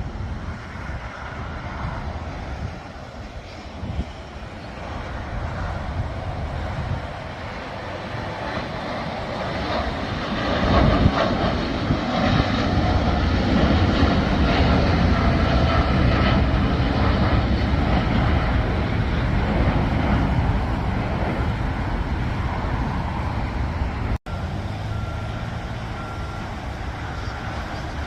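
Jet airliner taking off: the engine noise builds to a loud peak about ten seconds in, holds, then slowly fades. Near the end a high electronic beep repeats.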